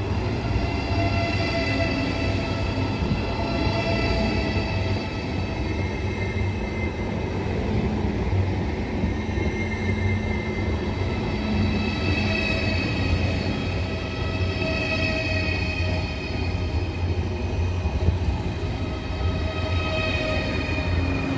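Eurostar high-speed electric train rolling past close by: a steady rumble of wheels on rail, overlaid by a high whine of several tones that drift slightly in pitch.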